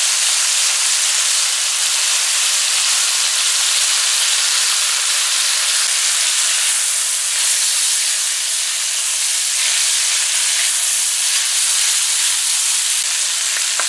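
Shrimp, carrots and bell peppers sizzling steadily in hot oil in a wok.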